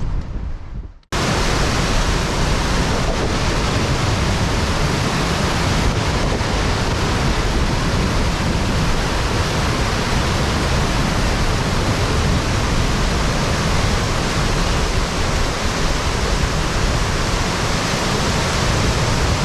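Rushing water of a mountain stream running close by: a loud, steady, even rush that starts abruptly about a second in, after a brief low rumble of wind on the microphone.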